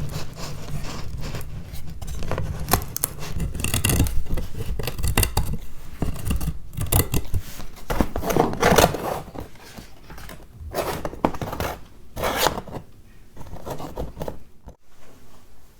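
Close-up hand work: a quick, irregular run of small clicks, snips and scrapes, busiest in the first ten seconds and thinning to a few separate clicks after that.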